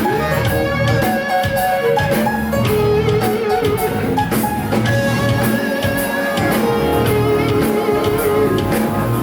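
Live band playing an instrumental passage led by electric guitar over bass and drum kit, with a steady beat.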